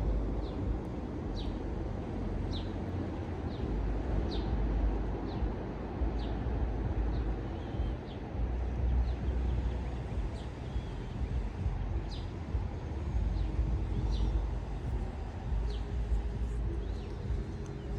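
A bird chirping outdoors: short high calls repeated roughly once a second, over a steady low rumble.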